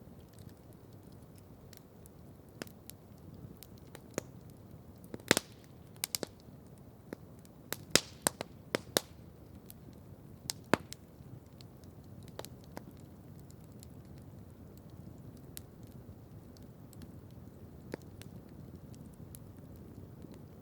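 Wood campfire crackling. A cluster of loud, sharp pops comes between about five and eleven seconds in, followed by sparser, fainter snaps over a low steady rush.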